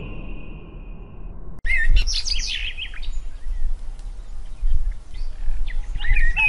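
Small birds chirping in short, quick, gliding calls, in a busy spell just under two seconds in and again near the end, over a low outdoor rumble. In the first second a steady high-pitched tone fades out.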